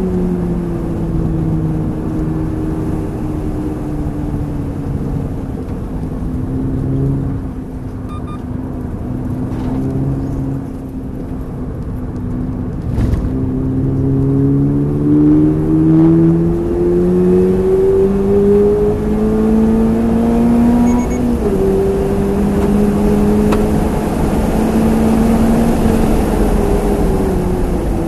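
Toyota GR86 engine running while driving: its pitch falls slowly over the first few seconds as the car slows, then climbs steadily for about eight seconds under acceleration, drops sharply at a gear change about 21 seconds in, and rises slowly again. A brief knock is heard about 13 seconds in.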